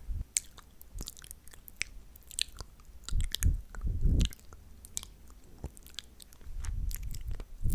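Close-miked ASMR mouth sounds: scattered wet, sticky clicks and smacks of lips and tongue, with a few fuller, lower mouthing swells about three and four seconds in and again near the end.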